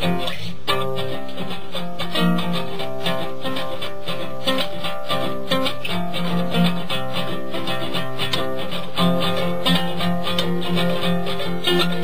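Acoustic guitar played with bare fingers, no pick: a run of plucked notes and chords.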